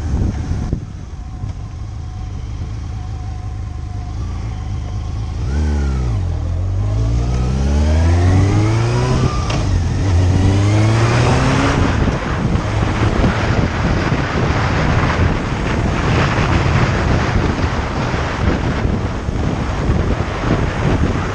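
Motorcycle engine accelerating: about a quarter of the way in, its pitch climbs, drops, and climbs again as it shifts up. After that, wind rushes loudly over the microphone at speed.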